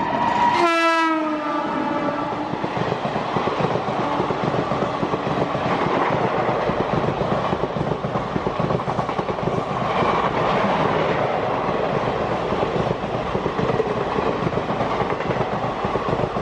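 Electric locomotive's horn sounding as it passes, its pitch dropping steeply about a second in. This gives way to the steady rush and rail clatter of passenger coaches running past at speed.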